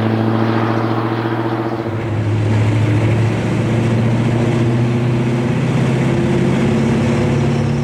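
A V8 in a 1963-66 Chevrolet C10 / GMC 1000 truck, running steadily through a Flowmaster American Thunder exhaust with Super 44 mufflers: a deep rumble. The engine speed rises a little about two seconds in and then holds.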